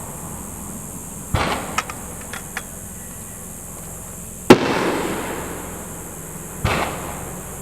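Aerial firework shells bursting: a bang with a few small crackles after it, then a much louder sharp bang that echoes away over a second or two, then a third bang near the end.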